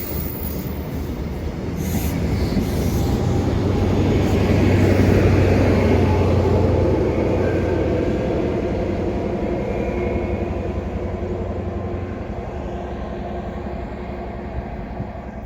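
A train passing by, its steady low hum and running noise growing louder to a peak about five seconds in, then slowly fading.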